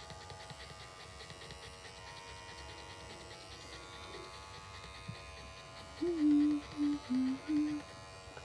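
A steady faint electrical hum with a buzz in it. Past the middle come four short, low, pitched vocal sounds in quick succession, the loudest thing heard.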